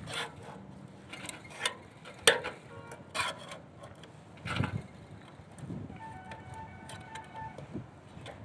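Irregular knocks and clatters, the loudest about two seconds in, with a short run of repeated high beeping notes in the last few seconds.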